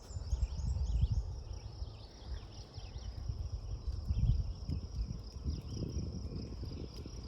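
A steady high insect chorus, like crickets, with a string of short chirps over it in the first two seconds or so, under an uneven low rumble of wind on the microphone.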